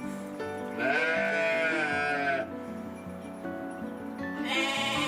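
Sheep bleating: one long call about a second in and another near the end, over background music.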